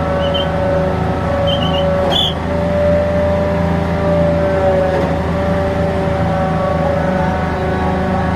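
Hydraulic pile-driving machine running steadily: its engine and hydraulic pump hum with a held whining tone, while it presses a precast pile under pressure. A few short high squeaks come in the first two seconds, and a single sharp knock comes about two seconds in.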